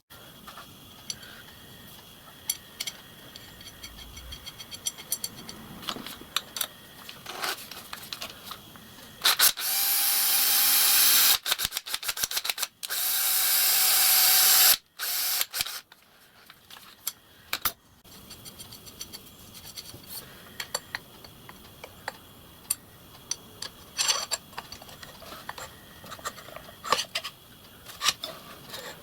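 Workshop tool sounds: scattered clicks and knocks of metal tools being handled, with two loud rushing hisses of about two seconds each near the middle.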